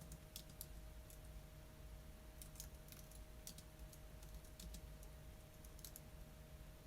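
Faint, irregular typing on a computer keyboard: scattered keystrokes with short pauses between bursts, over a low steady hum.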